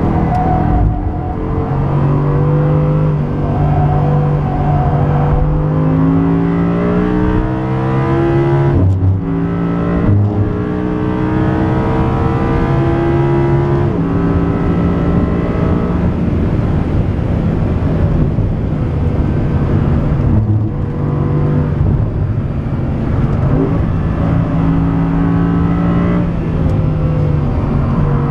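Audi R8 V10 Plus's 5.2-litre V10 under hard acceleration, revs climbing through the gears with quick drops in pitch at each shift. There are short breaks in the sound about nine and ten seconds in.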